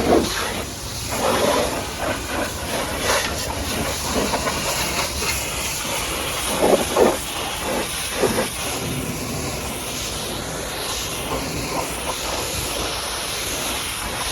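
High-pressure washer spray blasting mud off a truck: a steady hiss with louder swells as the jet strikes different surfaces.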